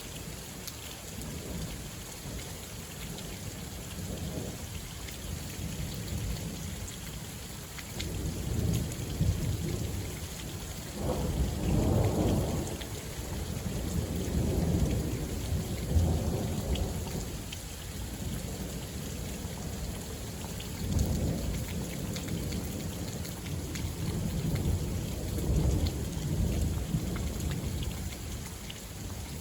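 Thunderstorm: thunder rumbling in several long rolling peals over steady rain with scattered raindrop ticks. The loudest peal comes about a third of the way in, with more rumbles after it.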